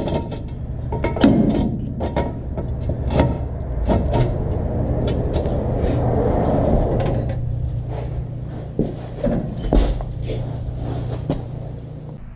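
Scattered metal clanks and knocks as a floor jack and jack stands are worked under a pickup's frame, over a steady low hum.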